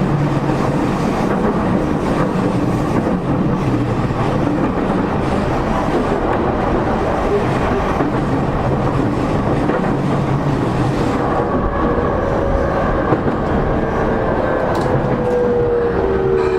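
Interior running noise of a JR East E231-0 series electric train, heard from inside a motor car at speed: a loud, steady rumble of wheels and track with some clickety-clack. In the last few seconds a whine falls slowly in pitch.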